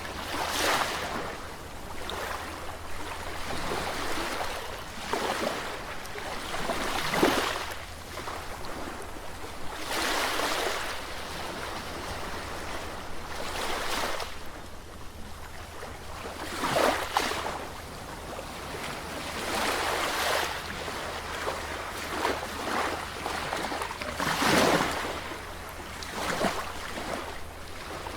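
Sea waves breaking and washing in, a steady hiss of surf that swells into a louder surge every three to four seconds.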